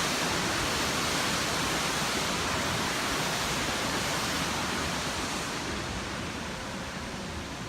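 Waterfall rushing in a steady, even roar that slowly fades over the last few seconds.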